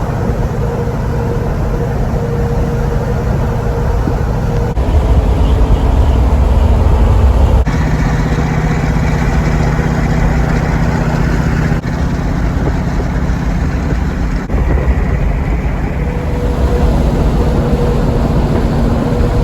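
Truck driving on the road: a steady engine and road rumble, changing abruptly a few times.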